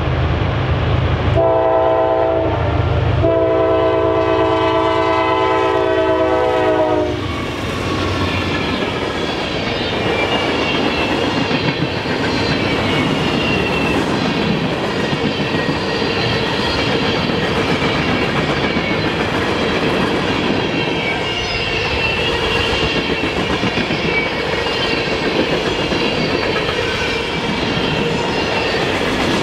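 A train passing close by. The locomotive's air horn sounds a chord, first a short blast and then a long one that drops in pitch as it goes by. The rumble and clickety-clack of the cars rolling past follow, with faint high wheel squeal.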